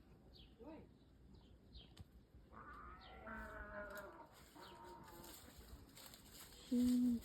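Backyard birds, likely including chickens, calling: quick chirps in the first couple of seconds, then longer drawn-out calls, and one short, loud low call near the end.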